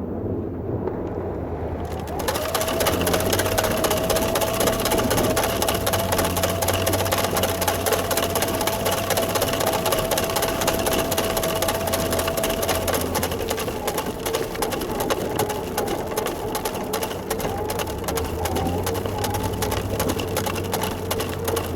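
Small engine running steadily, with rapid, even firing pulses; it gets louder about two seconds in. A whining tone rides over it and drops in pitch about halfway through.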